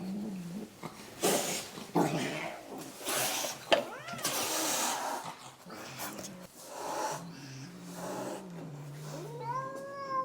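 Stressed, defensive domestic cats hissing in several sharp bursts, then a low growl and a rising-then-falling yowl near the end.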